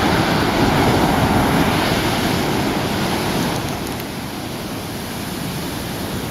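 Sea surf breaking and washing on a beach in the swell left after a typhoon, louder in the first few seconds and then easing off. Some wind is on the microphone.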